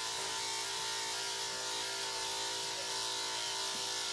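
Electric dog grooming clippers running steadily with an even buzzing hum.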